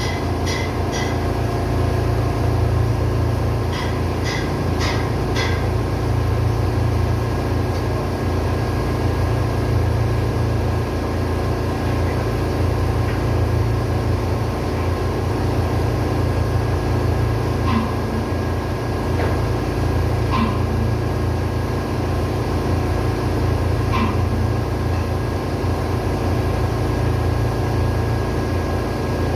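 Ship's engine-room machinery running steadily with a loud low hum, with short runs of light metallic clicks in the first few seconds and three separate knocks in the second half.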